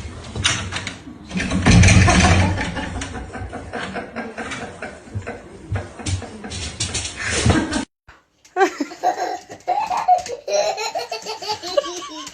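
Rustling clatter and knocks, loudest about two seconds in. After a brief break about eight seconds in, a person laughing.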